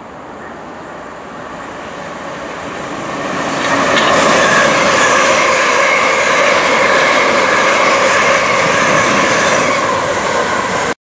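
Electric passenger train passing on the track, growing louder over the first four seconds, then a steady rush of wheels on rails, cut off abruptly near the end.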